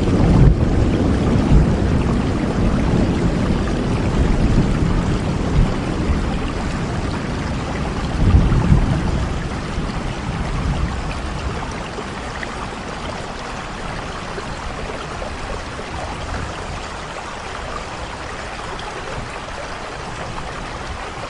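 Steady rain hissing, with low rumbles of thunder that are loudest at the start, swell again about eight seconds in, then die away, leaving a softer, even patter of rain.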